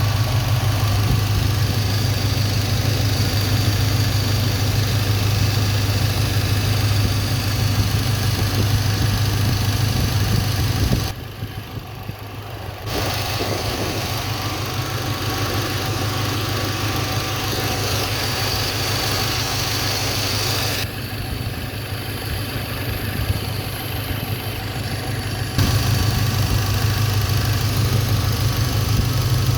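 Engine idling steadily. About eleven seconds in, the sound dips and the steady hum gives way to a slightly chugging, less even idle for about a quarter minute, then returns to the steady note near the end: the change as one spark plug wire is shorted to ground shows that cylinder is firing, not dead.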